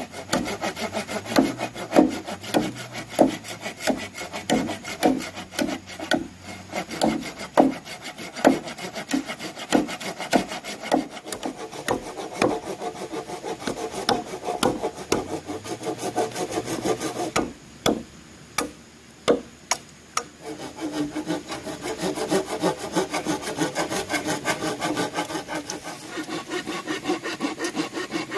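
Bamboo being cut with a handsaw: repeated back-and-forth scraping strokes, about two a second, pausing briefly with a few knocks about two thirds of the way through, then quicker, closer strokes.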